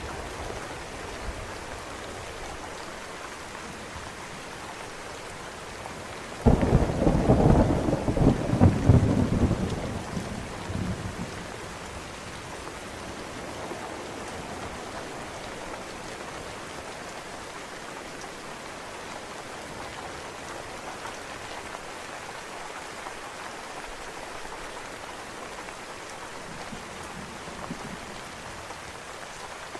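Steady rain falling, with a sudden close thunderclap about a quarter of the way in that cracks and then rumbles for about four seconds before fading back into the rain. A faint low rumble of distant thunder comes near the end.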